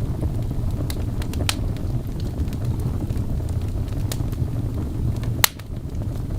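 Wood fire crackling in a fireplace: scattered sharp pops over a steady low rumble. The loudest pop comes about five and a half seconds in.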